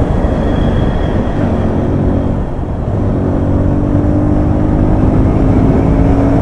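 Yamaha FZs single-cylinder motorcycle engine running under way with wind rush, heard from a camera mounted on the bike; about halfway through the engine note gets stronger and climbs slightly.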